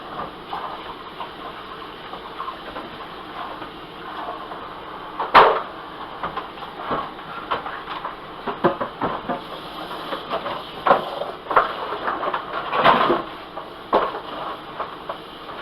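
Kitchen clatter: irregular clicks and knocks of cookware and utensils, the sharpest about five seconds in and a denser run later on, over a steady low hiss.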